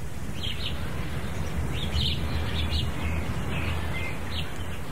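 Birds chirping in many short calls, scattered through the whole stretch, over a steady low rumble.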